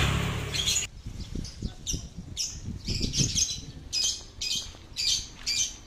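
Small bird calling repeatedly with short, high chirps, about two a second and sometimes in pairs. A low rumble at the start drops away just under a second in.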